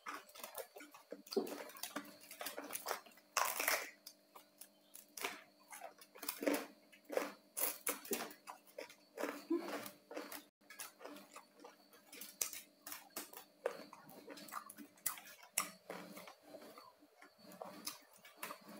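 Close-up chewing of crisp-skinned roast pork (saucu bapang): a dense, irregular run of crunches and mouth sounds.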